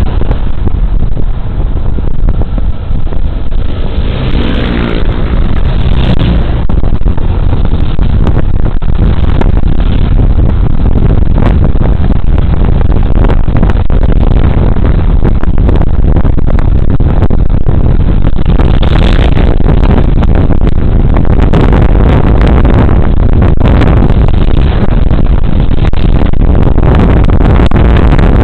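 Suzuki Burgman Street 125 scooter's single-cylinder four-stroke engine running at road speed under a loud, steady rumble of wind on a body-worn camera's microphone. A brief rising engine note comes about four to five seconds in.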